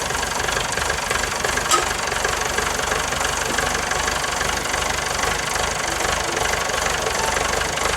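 An engine idling steadily with a fast, even low throb.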